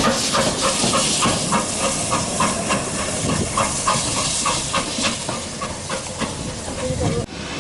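Steam locomotive hissing steam, with a rapid regular beat of about four pulses a second. The sound cuts off abruptly near the end.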